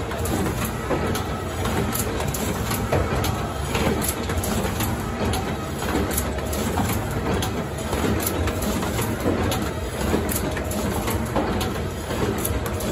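CH 380 BOPP cellophane overwrapping machine running, a continuous mechanical clatter with many short clicks and knocks as it wraps boxes.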